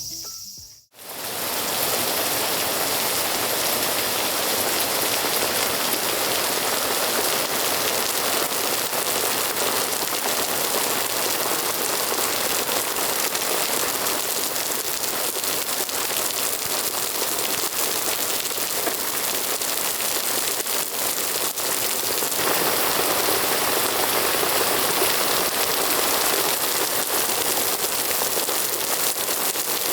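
Heavy downpour: dense, steady rain that starts abruptly about a second in.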